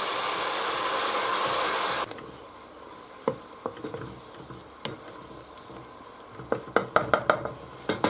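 Garlic and grated tomato frying in olive oil in a stainless steel pot: a loud, steady sizzle that cuts off suddenly about two seconds in. A quieter stretch follows, with scattered knocks of a wooden spoon stirring against the pot that bunch together near the end.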